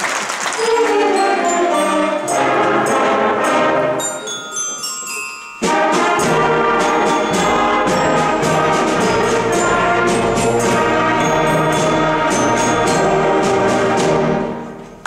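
School concert band of brass, woodwinds and percussion playing the end of a Christmas arrangement. A lighter passage gives way about five and a half seconds in to the full band playing loudly, and the piece ends with a final chord that dies away just before the end.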